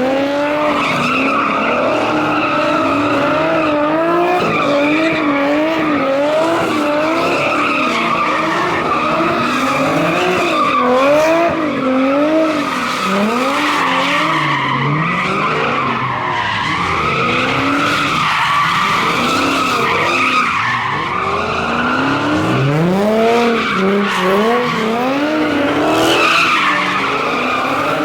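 Hemi V8 car sliding with its tires squealing, the engine revving up at the start and then rising and falling over and over, roughly once a second, as the throttle is worked through the slide.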